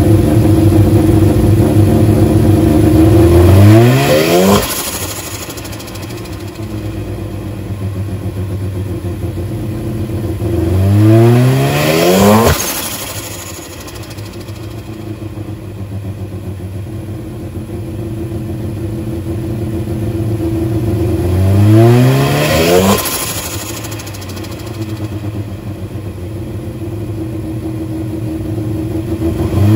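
Turbocharged Mazda RX-8 engine with a Greddy T78 turbo, running and revved four times about every nine seconds. Each time its pitch climbs quickly, then falls back to a steady lower note. A single sharp crack comes as the second rev drops.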